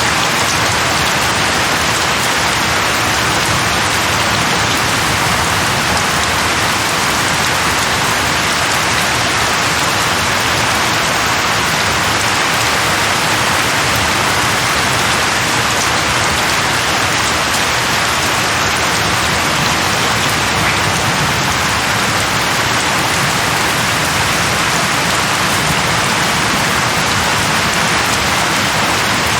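Steady heavy rain falling on leaves, an even continuous hiss with no thunder.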